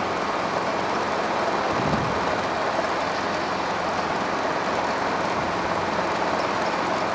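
Steady engine and rotor noise of a Robinson R22 helicopter, heard inside the cabin on a landing approach.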